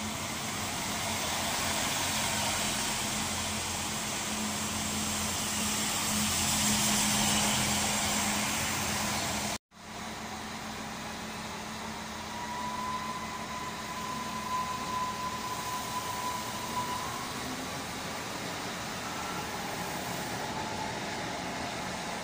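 Electric multiple unit at a station platform, with a steady electrical hum and running noise that swells over several seconds. The sound cuts off abruptly about ten seconds in, then a quieter steady hum of trains at the station follows, with a faint high whine for a few seconds.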